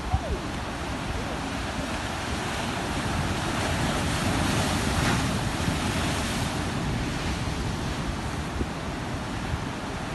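Ocean waves washing ashore, one wave swelling and breaking about midway, with wind rumbling on the microphone.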